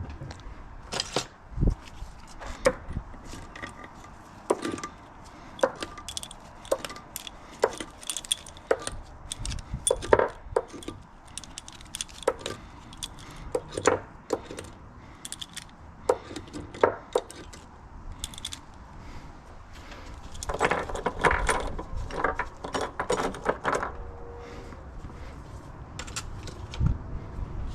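Metal hand tools and engine parts clinking and knocking during the teardown of a Honda CBR600RR engine, as irregular single clicks and knocks. About two-thirds of the way through comes a denser run of quick rattling clicks lasting a few seconds.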